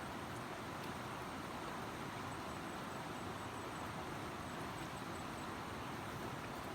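River water flowing steadily: a constant, even rushing noise.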